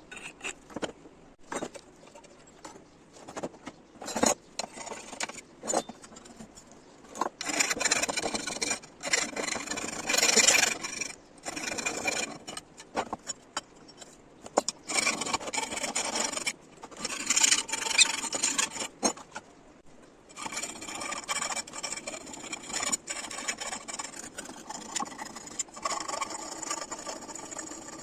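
Irregular rubbing and scraping strokes of a hand tool working the metal of a vice, a second or two at a time with pauses, with scattered clicks and knocks between them.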